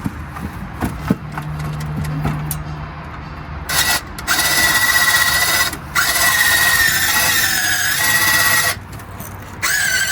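Electric motor on a travel trailer running with a steady high whine. It starts about four seconds in, stops briefly twice, and cuts out near the end before starting again. Before it come a few light clicks and a low hum.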